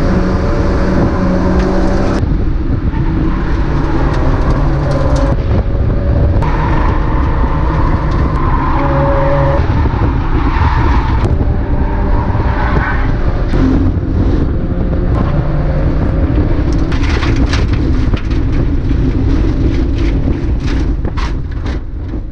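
Mazda MX-5 race car engine running hard, its pitch changing several times through the run, with sharp clicks and cracks near the end.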